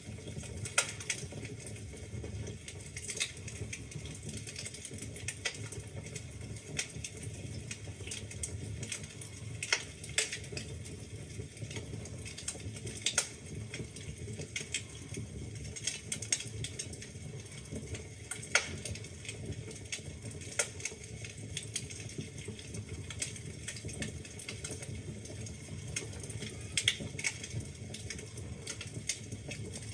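Wood fire burning in a fireplace: steady crackling with irregular sharp pops from the burning logs over a low rumble of the flames.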